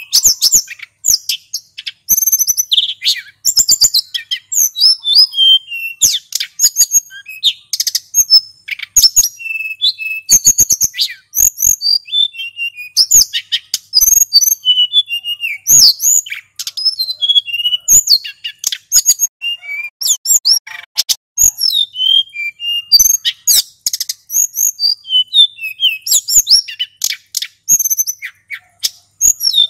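Male sulingan gunung (a blue flycatcher) singing a fast, continuous, varied song of quick whistled notes and sweeping trills, with barely a pause between phrases.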